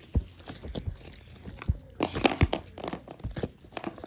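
Hands handling play dough and slime, with scattered crinkling clicks and a busier cluster of crackles about halfway through.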